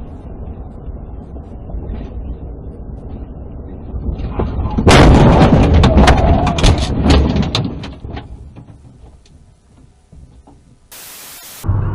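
Vehicle collision: a sudden loud crash about five seconds in, followed by a couple of seconds of crunching and banging impacts that die away. Steady road noise comes before it, and a short burst of hiss near the end.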